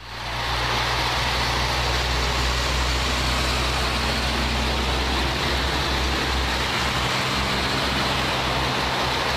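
Steady rushing noise with a low hum underneath, fading in at the start and holding level.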